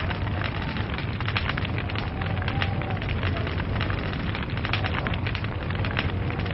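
Log fire burning, its wood crackling and popping several times a second over a steady low rumble.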